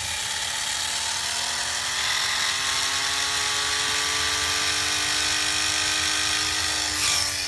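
The tiny electric motor and propeller of an Air Hogs E-Charger micro plane running with a steady whir, its pitch slowly rising. A brief noisy burst comes about seven seconds in, just before the whir stops.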